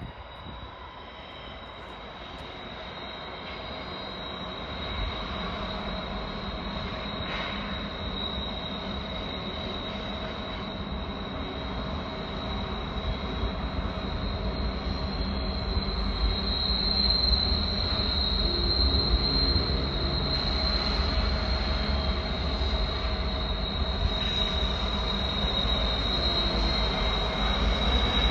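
Diesel-hauled double-stack freight train approaching on the curving mountain grade. Its low locomotive rumble grows steadily louder, under a steady high-pitched squeal of wheel flanges grinding on the curve, which strengthens in the second half.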